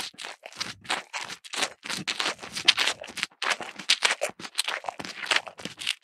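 Crisp crunching of grass being chewed, as a cow eating fodder: a quick, irregular run of short crunches, about four or five a second.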